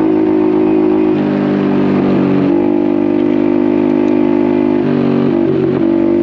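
Honda Navi's 109 cc single-cylinder engine running through an aftermarket Vance & Hines exhaust at steady riding revs, its pitch shifting in small steps a few times.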